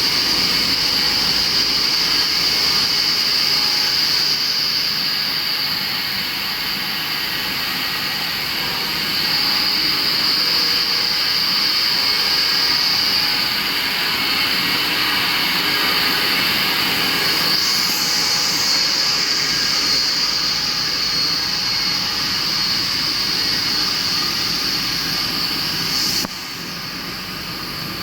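Wire-drawing and welding wire production machinery running steadily: a loud, even hiss with a high whine. The sound changes in level a few times and drops abruptly near the end.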